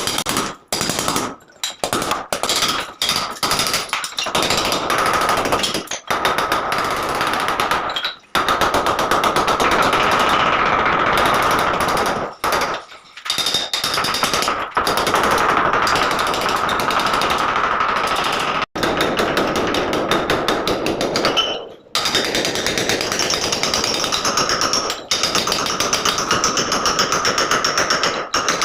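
Electric chipping hammer breaking out ceramic tile: several short bursts at first, then long, nearly unbroken runs with a few brief stops.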